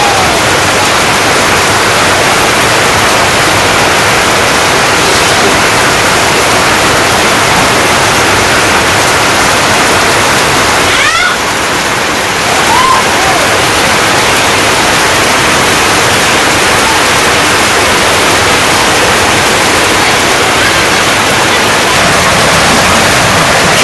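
Heavy rain pouring down on corrugated tin roofs and a flooded yard, a loud steady hiss. A few short rising calls cut through about halfway.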